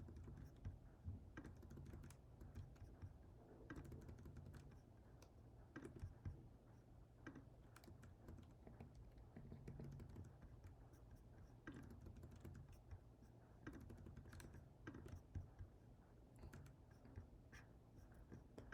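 Faint computer keyboard typing: scattered short key clicks, irregular and spread throughout.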